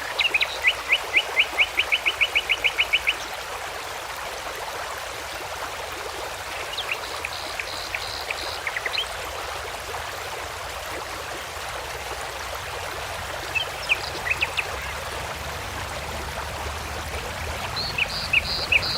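Songbirds singing: a quick trill of about fifteen repeated notes at the start, then shorter, higher phrases around a third of the way in, about three-quarters in and near the end. Under them runs a steady rushing background.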